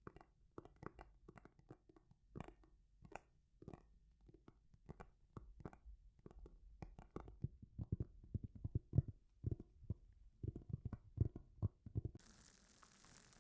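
ASMR trigger sounds: irregular soft taps and crackles close to the microphone, growing busier and louder toward the middle. About twelve seconds in they stop abruptly and a steady hiss takes over.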